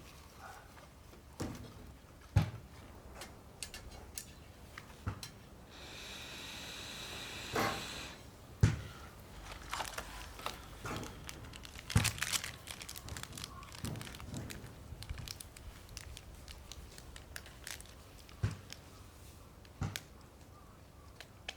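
Wood fire crackling in a campfire stand, with irregular sharp pops and a short steady hiss about six seconds in.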